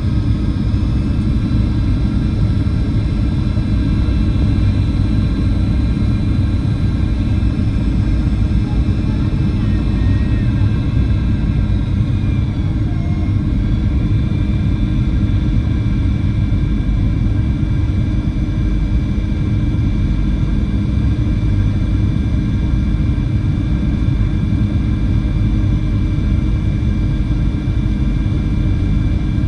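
Cabin noise of a Boeing 737-800 in flight: its CFM56 jet engines and airflow make a steady low rumble with a thin high whine over it. One of the whine tones shifts slightly in pitch about halfway through.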